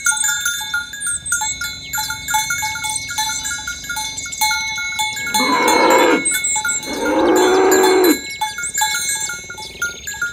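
Cattle mooing twice, two long moos about five and seven seconds in, over the repeated clanking of cowbells as the herd walks. Birds chirp high in the background.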